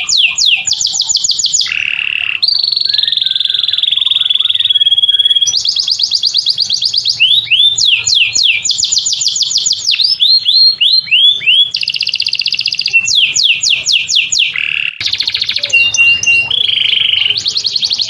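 Songbird singing loudly and without pause: fast runs of repeated sweeping notes alternating with rapid trills and short held whistles, the phrase type changing every second or two.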